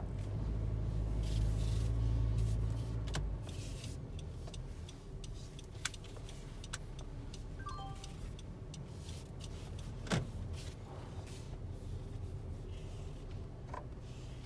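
Cabin noise of a 10th-generation Honda Civic: a low rumble, strongest in the first three seconds, with scattered clicks and ticks and two sharper knocks about six and ten seconds in. This is the intermittent driver's-side noise the owner reports and the dealer could not find.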